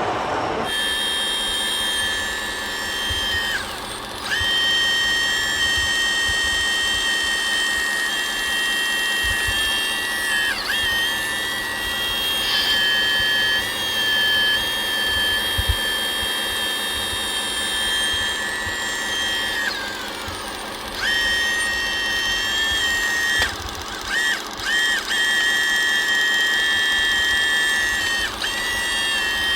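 Small electric motor of an RC model machine whining at a steady high pitch. It sags and recovers about five times, as if briefly loaded.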